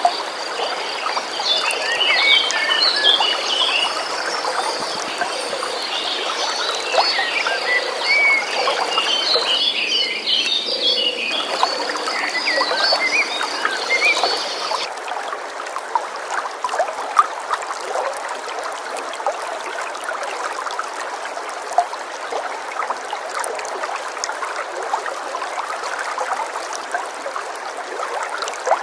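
Small birds chirping and a steady high trill of a frog or insect over running stream water. About halfway through the birdsong and trill cut off abruptly, leaving only the stream flowing.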